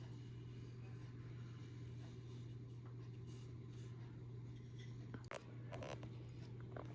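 Quiet room tone with a steady low hum, and a few faint strokes of a paintbrush rubbing on the painted surface about five to six seconds in.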